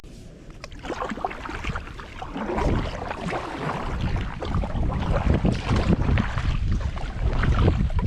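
Kayak paddle strokes splashing through the water, growing louder after about two seconds, over a low rumble of wind on the microphone.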